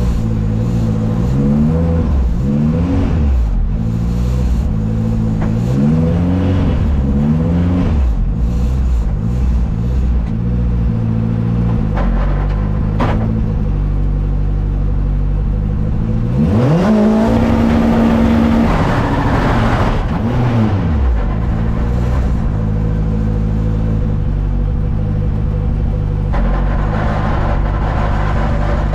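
Turbocharged Ford Fiesta race car engine revving in short rises and falls, then climbing to a steady held pitch near the two-step launch limiter for a second or two before dropping away. It is held that high to build boost, because the turbo is laggy.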